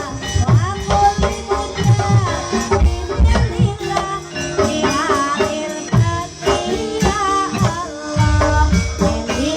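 Live ebeg (kuda kepang) dance music: a Javanese gamelan-style ensemble with repeated drum strokes, held metallophone tones, a wavering melody line and rattling percussion.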